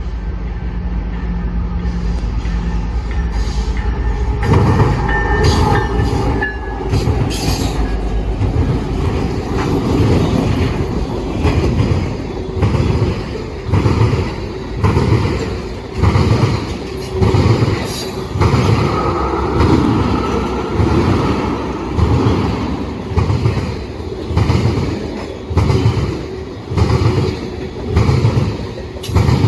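Freight cars of a long mixed train rolling past close by, their wheels clattering over rail joints in a regular beat about every second and a half. A faint steel-wheel squeal comes and goes.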